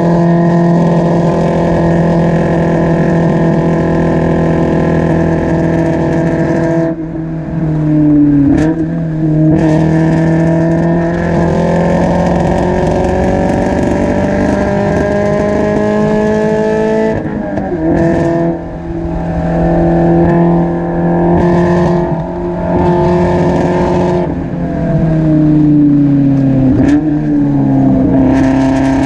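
Spec Miata's four-cylinder engine heard from right at the exhaust, held at high revs on track. The engine note climbs slowly through long pulls, and three times it lifts and drops in pitch through a gear change before pulling again. The owner says the engine was still misfiring and well down on power in this session.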